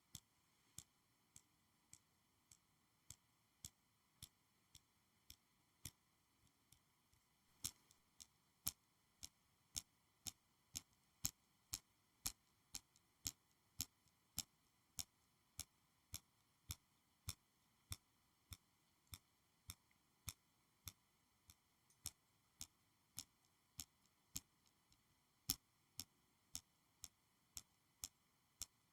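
Sharp single clicks from a school supply being clicked or tapped, evenly paced at about two a second, growing louder about eight seconds in.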